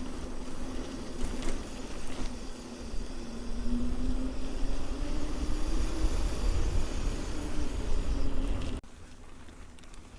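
Wind buffeting the action camera's microphone as a mountain bike rolls along at speed, with a steady droning hum that rises a little in pitch midway. It cuts off abruptly near the end, leaving quieter ride noise.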